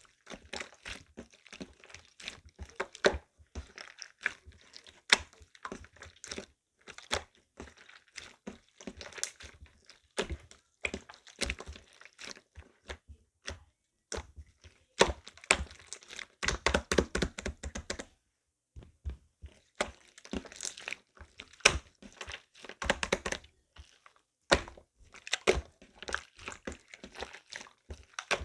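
Slime being squeezed, pressed and stretched by hand, giving off irregular crackling clicks and pops, denser in some stretches than others, with a short pause about two-thirds of the way through.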